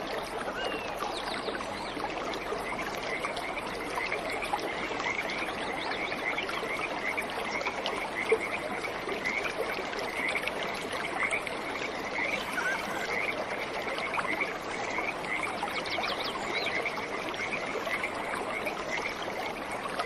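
Steady rush of waterfall water. From about two seconds in it carries a long run of short, high chirping calls from an animal, repeated about twice a second.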